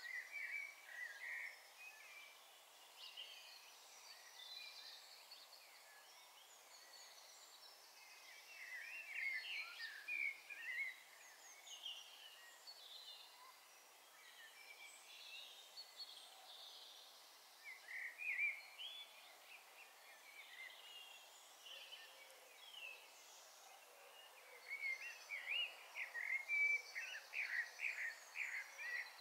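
Songbirds singing: clusters of short, quick chirps and trills over a faint steady background hiss, coming in bouts with pauses between, busiest and loudest near the end.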